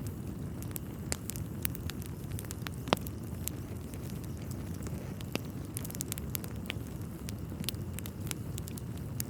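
Wood fire burning in a fireplace: a steady low rumble of flames with scattered sharp crackles and pops, the loudest about three seconds in.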